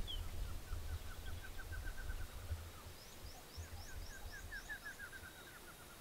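Wild birds singing: a fast trill of short repeated notes, given twice, with a higher, thinner series of about eight notes overlapping it in the middle, over a low rumble.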